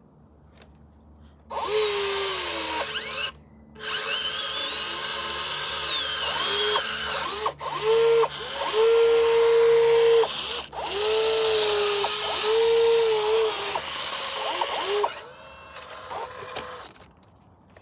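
Electric motor of a radio-controlled construction model running in repeated stop-start bursts, a loud whine with mechanical noise whose pitch dips and recovers as it takes load.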